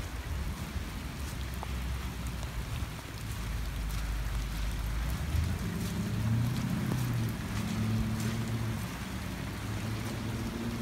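Heavy rain falling, with scattered drops ticking. From about halfway through, a vehicle engine adds a low hum under the rain.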